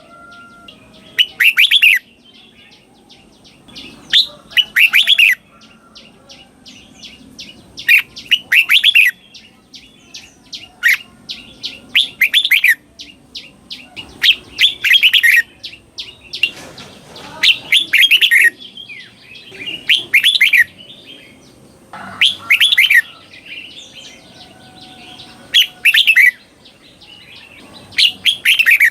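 Red-whiskered bulbul singing short, loud, warbling phrases, one every two to three seconds, some delivered as quick doubled pairs.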